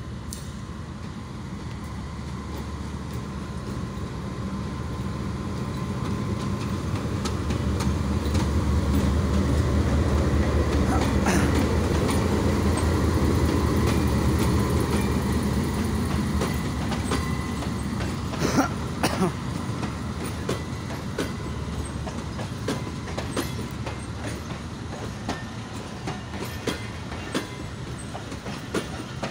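GEU-20 diesel-electric locomotive hauling a passenger express as it pulls out, its engine drone swelling to its loudest about halfway through as it goes by, then fading. The passenger coaches follow with wheels clacking over rail joints.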